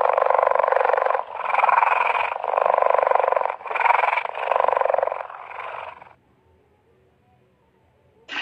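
Cheetah purring: six long purrs back to back, each about a second and made of rapid pulses, stopping about six seconds in.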